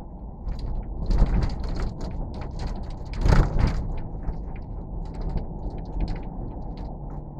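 Steady low rumble with irregular mechanical rattling and clicking over it, swelling louder twice, about a second in and again a little past three seconds.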